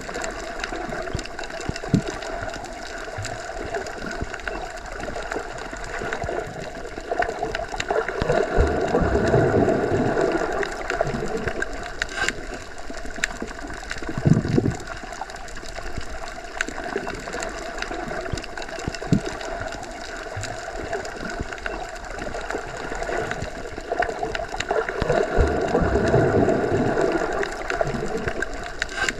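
Underwater ambience: a steady, muffled wash of water that swells twice, about nine seconds in and again near the end, with a few short clicks scattered through it.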